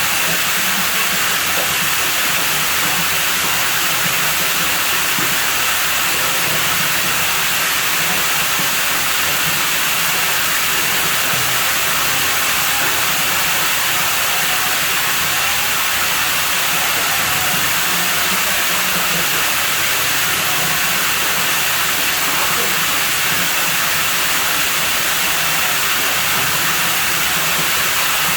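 Water running steadily into a pool: a constant rushing hiss that does not change.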